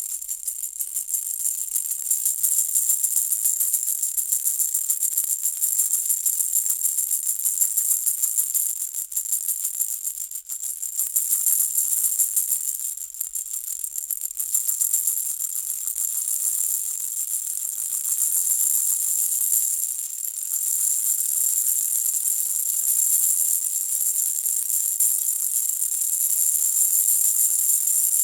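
Baby rattle toy shaken continuously: a dense, bright rattling and jingling that swells and eases in waves, with brief dips every few seconds.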